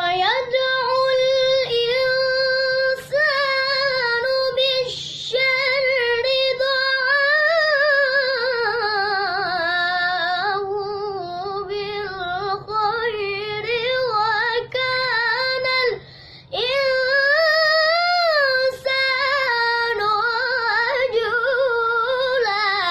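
A boy's voice reciting the Quran in melodic tajwid style, with long held, high-pitched phrases that waver and turn in ornaments, broken by short pauses for breath.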